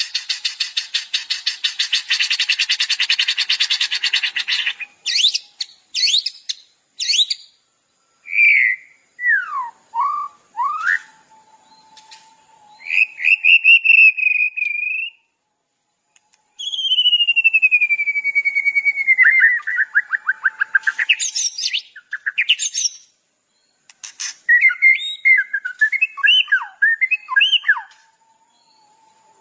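Songbird song from a bird-tutoring (masteran) recording. It opens with a fast, dense trill for about five seconds, then breaks into separate chirps and whistles, including a long falling whistle near the middle and a quick jumble of chirps near the end.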